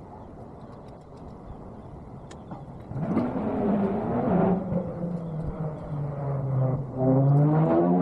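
A tractor engine starting up about three seconds in and revving, its pitch rising and falling, louder again near the end.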